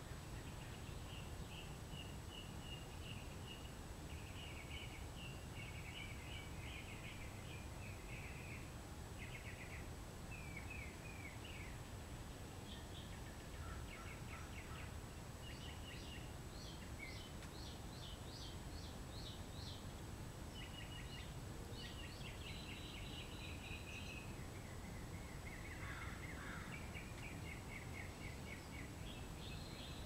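Small birds chirping and trilling in quick repeated series, over a steady low background rumble.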